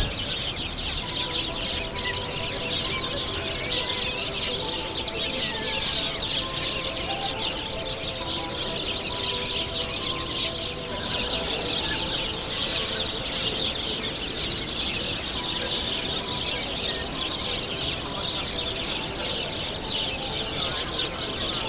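A dense chorus of many small birds chirping at once, with faint held tones underneath.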